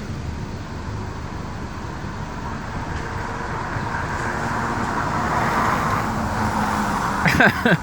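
Street traffic: the steady noise of a passing vehicle, swelling over several seconds and easing off near the end.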